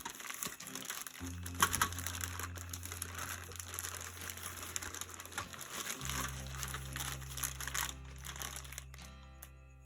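Packaging crinkling and rustling as it is handled and unwrapped, over background music with long held bass notes that change about six seconds in.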